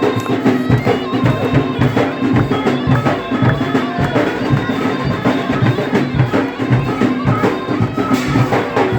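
Traditional Algerian folk music: a melody held over steady, rhythmic drumming that plays on without a break.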